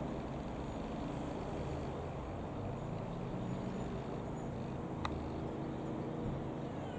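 Comco Ikarus C-42 FB80 microlight's Rotax 912 four-cylinder engine running steadily at a low, even speed, with one sharp click about five seconds in.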